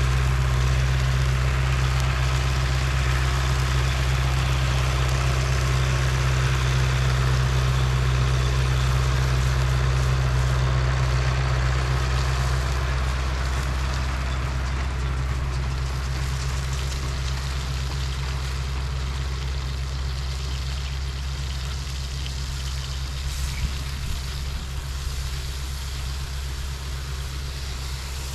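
Heavy engine running steadily with a deep, even hum that gradually grows quieter over the second half.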